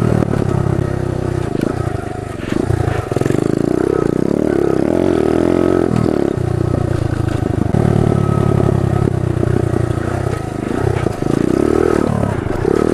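Pit bike engine revving up and down as the throttle is opened and closed riding over dirt jumps, with short drops in revs between pulls.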